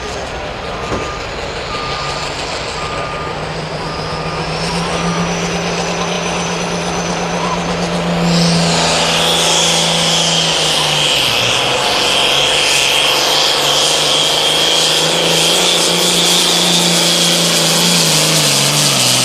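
Turbocharged diesel pulling tractor at full throttle on a pull: the engine note climbs, then about eight seconds in it goes to a loud roar with a high turbo whistle over it for some ten seconds, and the engine pitch drops near the end as it comes off the throttle. A short beep repeats about once a second during the first few seconds.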